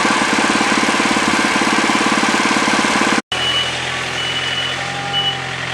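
Sawmill engine running steadily with an even, rapid pulse. About three seconds in the sound cuts off abruptly and resumes as a quieter, smoother engine hum.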